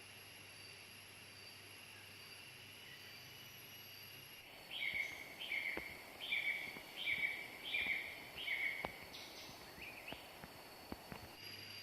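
A bird calls six times in an even run, about one and a half calls a second, starting about four seconds in. Behind it, jungle insects keep up a steady high-pitched drone, and a few faint clicks and knocks follow the calls.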